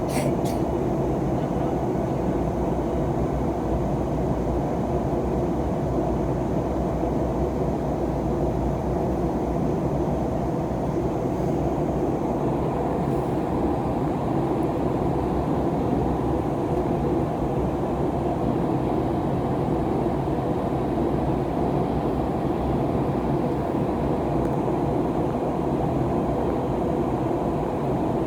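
Steady cabin drone inside an Airbus A321neo, heard from a window seat: its Pratt & Whitney PW1100G geared turbofans running at a constant setting, mixed with airflow noise. A couple of faint clicks just at the start.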